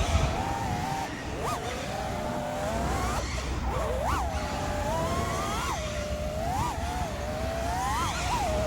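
FPV quadcopter's four brushless motors (Axis Flying AF227 1960kv on 6S, HQ J37 props) whining steadily in flight. The pitch shoots up and drops back about six times as the throttle is punched, over a low rumble of wind on the onboard camera's microphone.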